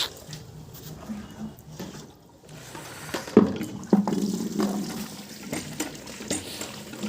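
Water pouring out of a tractor's clutch housing into a bucket, a steady splashing flow with a few sharp knocks from about halfway. This is the flush water being drained after washing out the clutch, and it comes out full of dirt.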